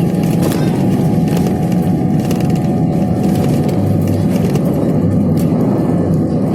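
Airliner cabin during the takeoff run or initial climb: loud, steady engine and airflow rumble, with the cabin trim rattling and clicking now and then. A few steady engine tones fade about halfway through.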